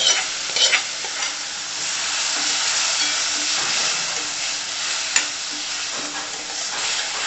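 Wet, freshly washed moong dal sizzling in hot oil and onion masala in a steel kadhai while being stirred, the spoon clicking and scraping against the pan a few times in the first second or so and once sharply about five seconds in.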